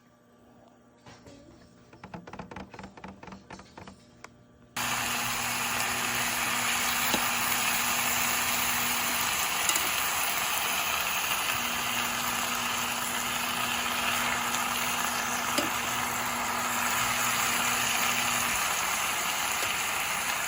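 Bulgogi sizzling in a frying pan: a steady, even sizzle that starts suddenly about five seconds in, after a near-quiet opening.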